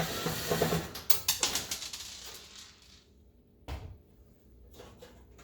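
Handling noise from taking off an oven's back cover: scraping and sharp clicks for about the first second and a half, then a quieter stretch broken by one dull thump.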